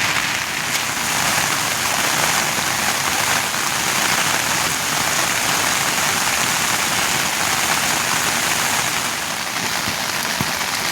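Steady rain falling, an even hiss with a few drops ticking near the end.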